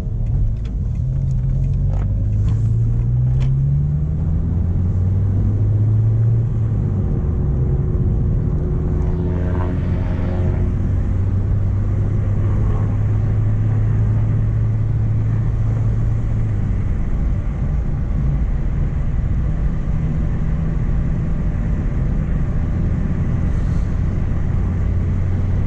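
Mk1 Renault Clio driving, heard from inside the cabin: engine and road rumble, the engine note rising over the first few seconds as the car picks up speed, then holding steady.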